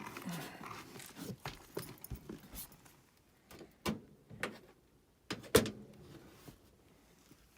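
Irregular clicks, knocks and light rattles of hand tools and small metal parts being handled, with a few sharper knocks a little after the middle.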